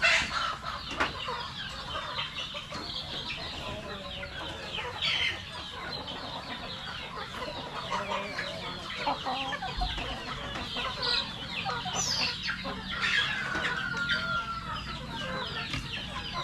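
A flock of Rhode Island Red chickens clucking and calling over one another, with a few longer drawn-out calls near the end.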